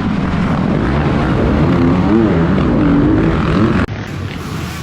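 Dirt bike engines revving, their pitch rising and falling. The sound drops suddenly to a quieter engine noise near the end.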